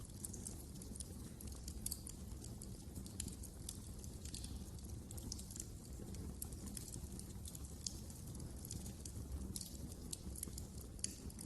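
Wood fire crackling in a fireplace: frequent irregular sharp pops and crackles over a low, steady rumble of the burning flames.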